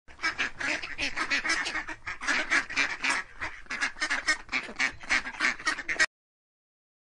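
Mallard ducks quacking in a fast, unbroken run of quacks, about four a second, that cuts off abruptly about six seconds in.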